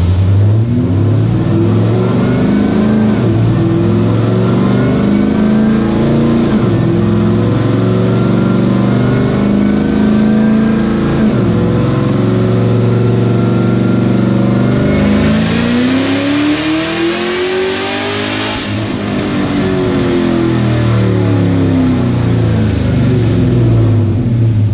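Supercharged forged LSA V8 at full throttle on a chassis dyno, on a nitrous pull. The revs climb and drop back sharply three times, as at gear shifts, then make one long climb with a whine rising alongside. The revs then fall away and settle to idle near the end.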